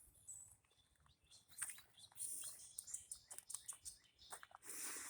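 Quiet bird chirps, short and high, mixed with scattered light clicks, and a brief burst of noise near the end.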